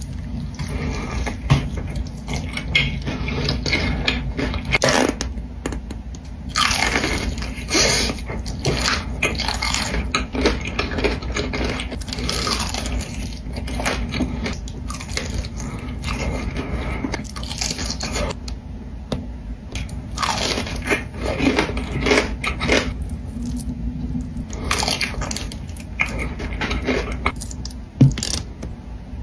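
Close-miked eating: crunchy bites and chewing that come in repeated crackly bursts, with one sharp loud click near the end.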